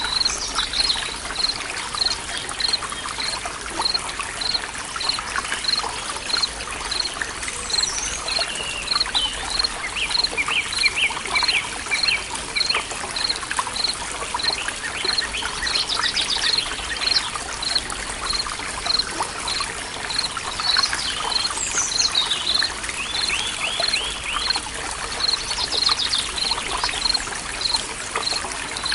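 Forest ambience of a trickling stream, with a short high chirp repeating steadily about twice a second and birds calling in trills now and then.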